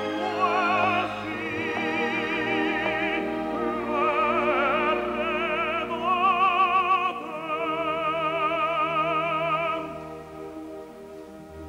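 An operatic tenor sings long, sustained notes with a wide vibrato over an orchestra. The voice drops away near the end, leaving the orchestra holding softer chords.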